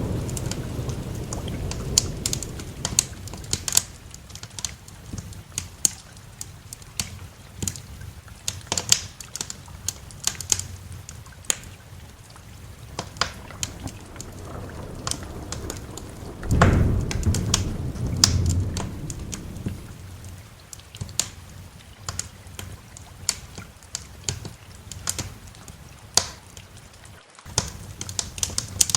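Wood fire crackling in a fireplace, with sharp irregular pops and snaps, over faint steady rain. A low thunder rumble dies away at the start, and another roll of thunder comes in about 16 seconds in and fades over a few seconds.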